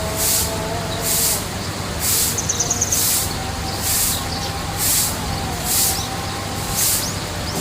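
A regular high hiss pulsing about once a second, with a short rapid bird trill about two and a half seconds in and two faint rising bird chirps near the end, over a low steady hum.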